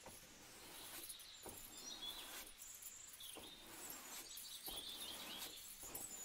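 Faint background ambience with small birds chirping now and then over a steady low hiss, and a few soft ticks.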